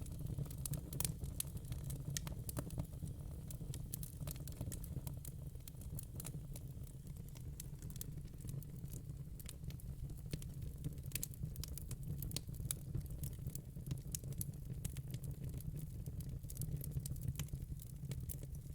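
Fire crackling: frequent small pops and snaps scattered irregularly over a steady low rumble.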